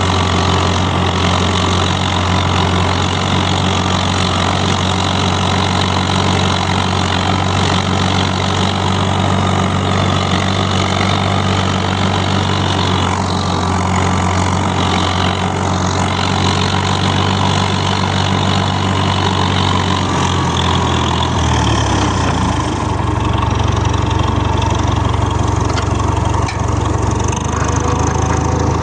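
Tractor engine running steadily at idle, its low note shifting about three-quarters of the way through.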